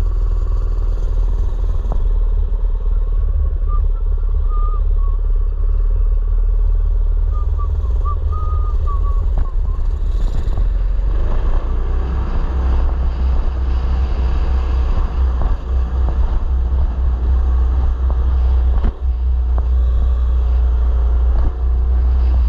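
Mini bike's small petrol engine running steadily under a heavy low rumble; its note comes through stronger about halfway through.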